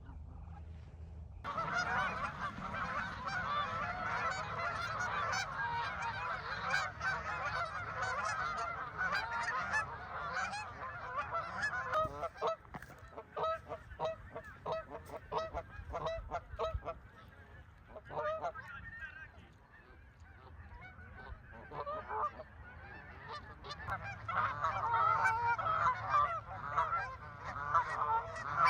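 A flock of Canada geese honking. Many calls overlap at first, then come separate honks a little before halfway. After a quieter lull, a dense chorus starts again near the end.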